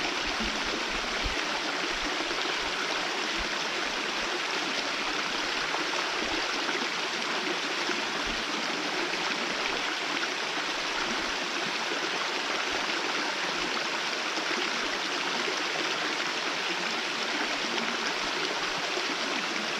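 Steady rushing and splashing of a thin, low-flow waterfall, an even, unbroken sound of falling water.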